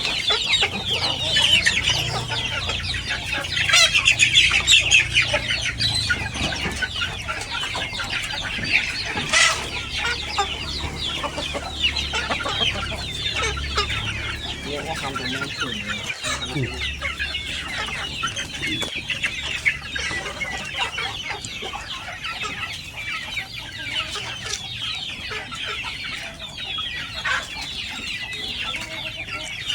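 A flock of kampung chickens clucking and calling continuously, many short overlapping calls at once.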